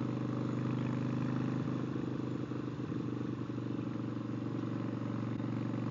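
Stage 1 Harley-Davidson V-twin engine running at a steady speed while the motorcycle is ridden, an even unbroken drone.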